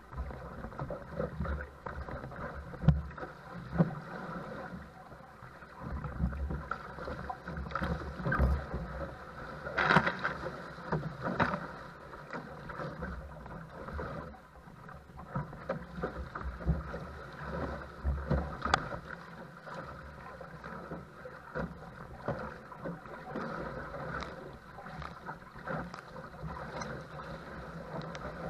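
Choppy, wind-driven water slapping and splashing around a paddle craft. The noise comes unevenly, with sharper splashes now and then; the loudest is about ten seconds in.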